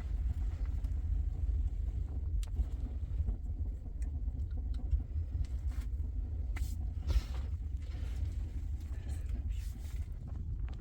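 A steady low rumble, with a few faint clicks and rustles scattered through it.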